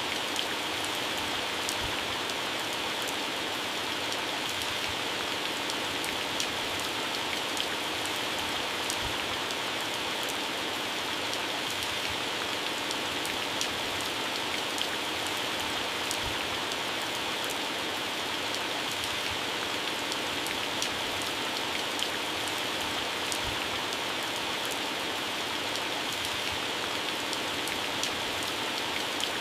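Heavy rain falling steadily on garden plants and grass, a dense even hiss with many individual drops pattering on leaves.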